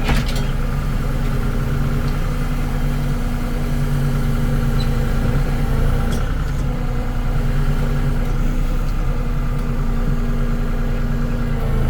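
Kubota L3560 tractor's four-cylinder diesel engine running steadily while its hydraulics work a tree-cutting attachment, with a sharp click right at the start.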